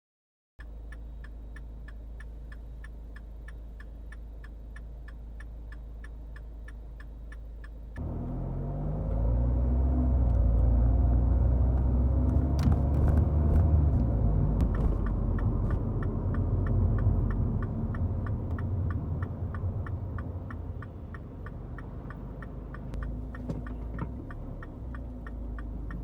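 Car engine running: a steady low hum with evenly spaced light ticks at first, then about eight seconds in the low rumble swells as the car drives off, easing off again later.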